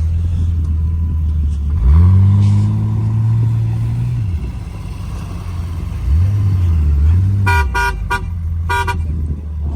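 A 4x4's engine running, revving up about two seconds in and dropping back, then revving briefly twice more. Near the end a car horn sounds a rapid string of short toots.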